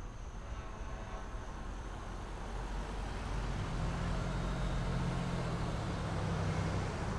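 Fire engine's motor running, its low rumble growing louder about three and a half seconds in as the truck comes closer.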